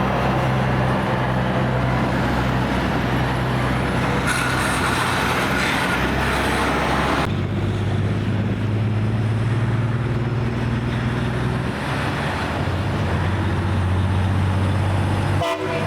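Heavy tractor-trailer trucks on the road: steady low diesel engine drone with tyre and road noise. The sound changes abruptly about seven seconds in, then carries on with a similar low engine drone.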